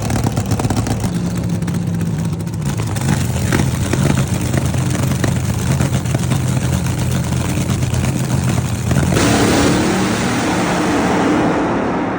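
A motor vehicle engine running steadily, its low note shifting in small steps. About nine seconds in it turns louder and rougher with a higher note, then begins to fade at the very end.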